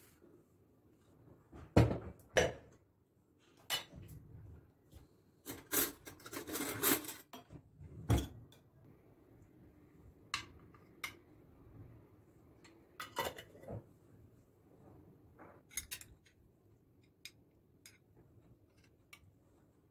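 Dishes and cutlery being handled: scattered clinks and knocks, the loudest two close together about two seconds in and another about eight seconds in, with a longer stretch of clattering and rubbing around six to seven seconds in.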